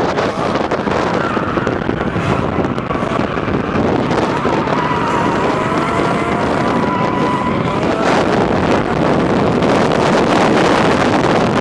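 2JZ-GE straight-six with a full exhaust running hard, mixed with wind buffeting the microphone; a slowly rising engine tone comes through in the middle, and it gets louder from about two-thirds of the way in.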